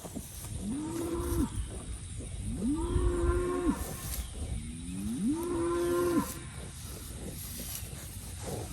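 Cattle mooing: three long calls, each swelling up in pitch and then held before dropping away, about a second apart from one another.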